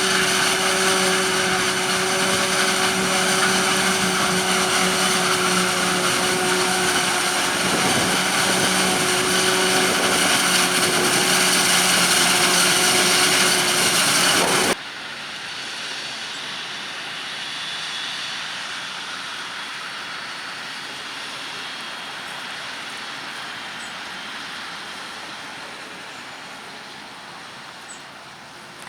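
Farm machinery at a maize silage harvest: a loud, steady machine sound with a high whine, then a sudden cut about halfway through to a much quieter engine sound that slowly fades.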